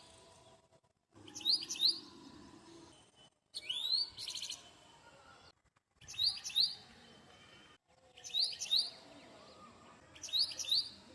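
A songbird repeating a short phrase of quick, rising whistled chirps five times, roughly every two seconds.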